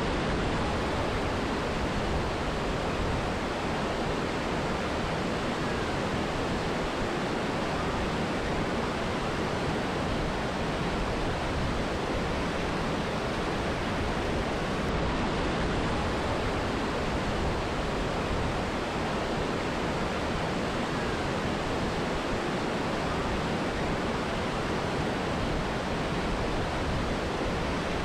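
Steady rushing of a mountain river and waterfall: a constant, even wash of falling water with no breaks.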